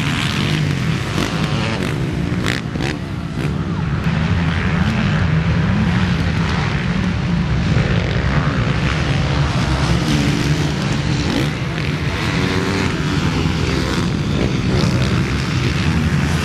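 Motocross bike engines running and revving on the track, their pitch rising and falling over a steady low rumble.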